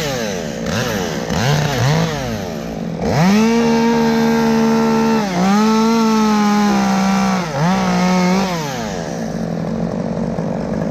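Two-stroke chainsaw revved in several quick blips, then held at high revs twice for about two seconds each with a brief dip between. After one more short rev it drops back to idle.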